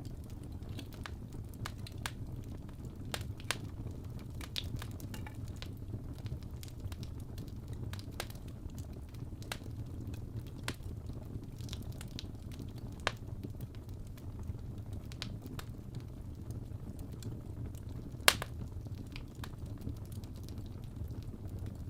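Fireplace crackling: a steady low rumble of the fire with scattered small pops throughout and one sharp, louder pop about 18 seconds in.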